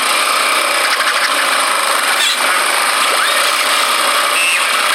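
Motorcycle engine running steadily, a continuous harsh buzz.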